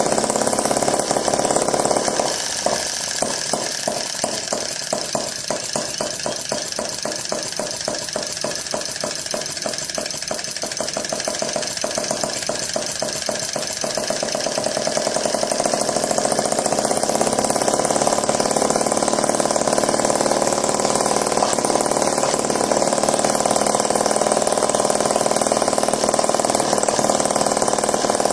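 'Classic 1S' gas engine running. From a couple of seconds in until about halfway, each firing stroke is heard as a separate, evenly spaced beat. It then picks up speed and settles into a smoother, steady run.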